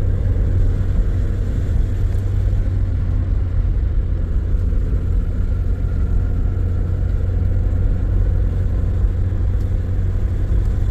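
A road vehicle's engine and tyres rumbling steadily, heard from inside the moving vehicle.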